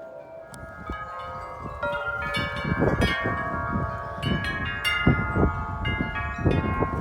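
Several large tuned wind chimes ringing hard in strong gusting wind, many overlapping bell-like tones struck again and again. The ringing grows louder and busier about two seconds in, over low rumbling gusts on the microphone.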